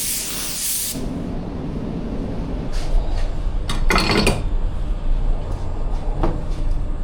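Paint spray gun hissing for about the first second, then stopping, followed by clinks and knocks of handling, with a louder rattle about four seconds in.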